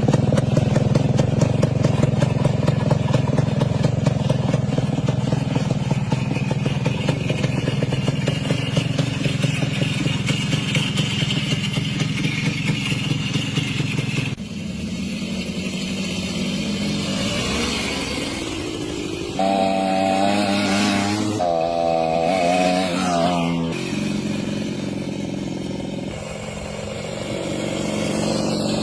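Minsk 125 motorcycle's single-cylinder two-stroke engine running: steady at first, then its note changes about halfway through and wavers up and down in pitch for a few seconds.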